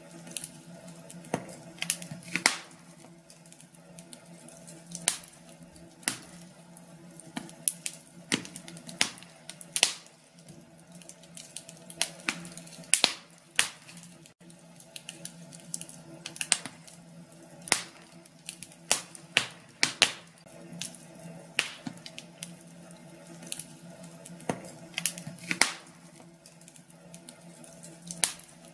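Wood fire in a fireplace crackling: sharp, irregular pops and snaps, sometimes several close together, over a faint steady hum.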